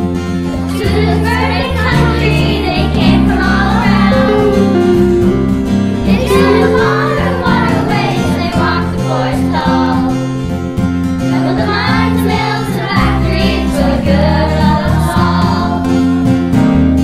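A children's choir singing a song in unison over instrumental backing music.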